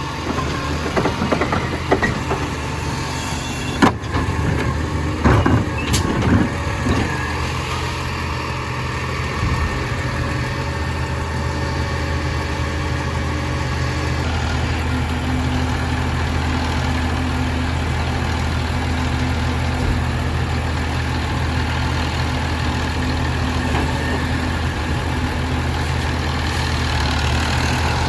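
Compost garbage truck's engine running steadily at idle, with several sharp knocks and clanks in the first several seconds and a steady higher hum joining from about halfway until near the end.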